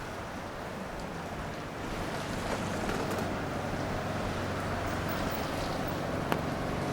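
City street traffic on wet roads: a steady hiss of tyres with a low engine hum, growing louder about two seconds in as a vehicle comes closer. A single sharp click sounds near the end.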